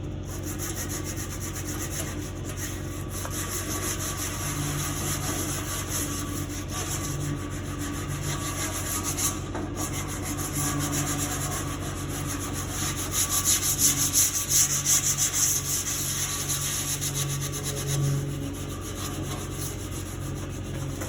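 Power sander running steadily against the painted sheet metal of a 1971 International Cub Cadet tractor, rubbing down the old paint before repainting, with a constant motor hum under the rasping; it presses harder and gets louder for a few seconds past the middle.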